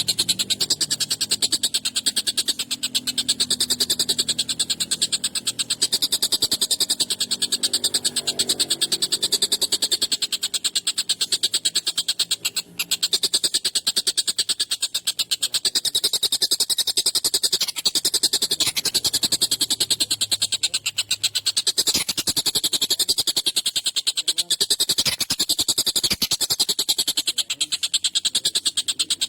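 Tengkek buto kingfisher giving its harsh, rapid chattering call: a continuous high-pitched rattle of many notes a second that carries on without a break.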